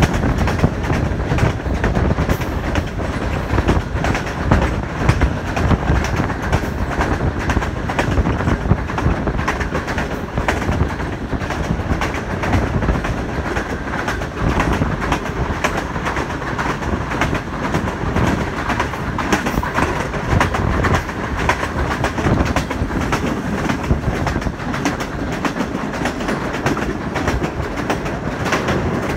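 Passenger train running on the line, heard on board a CRRC Tangshan coach of the Millat Express: a steady rumble of wheels on the track with a constant run of sharp clicks.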